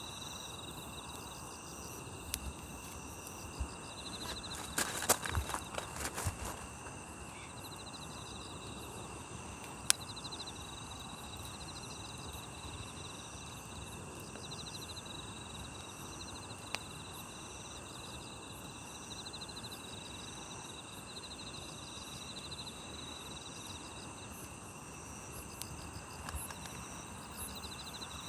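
Night grass insects chirping steadily in several high-pitched layers, one of them in quick pulsed trills, over a wood campfire that gives occasional sharp crackles and pops: a flurry of them about five seconds in and a single loud pop about ten seconds in.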